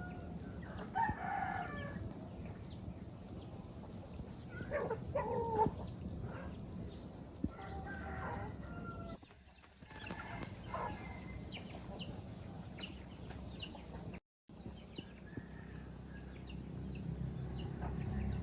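A flock of farm chickens calling and clucking, with a rooster's louder calls standing out about a second in and around five and eight seconds in. Many short, high, falling chirps run throughout, and the sound cuts out for a moment near the middle.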